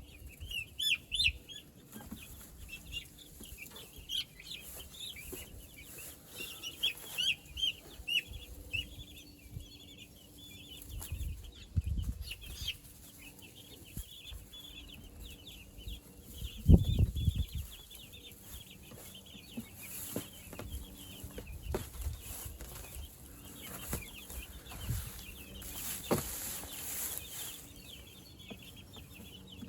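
A flock of young meat chickens peeping and cheeping constantly in many short, high chirps. There are a few dull low thumps, the loudest about halfway through.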